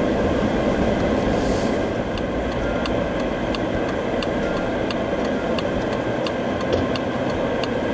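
2010 Jeep Wrangler's 3.8-litre V6 running under way with steady road noise. A light regular ticking comes in about two seconds in, roughly two to three times a second.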